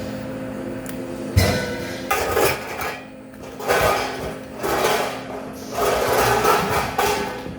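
Metalworking noise over a steady machine hum: a sharp knock about a second and a half in, then four rough, scraping bursts of under a second each.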